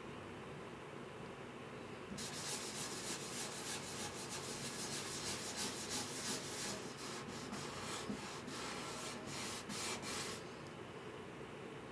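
Repeated hand rubbing strokes on the guitar's wood, like sanding, starting about two seconds in and stopping near the end.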